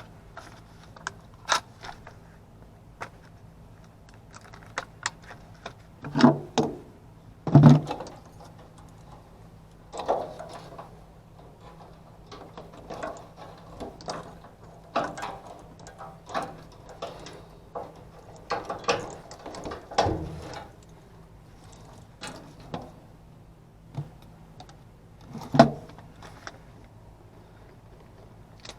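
Irregular metallic clicks, clinks and rattles of tools and small parts being handled during hands-on repair work, with louder clanks around six to eight seconds in, near twenty seconds and again near the end, over a faint steady low hum.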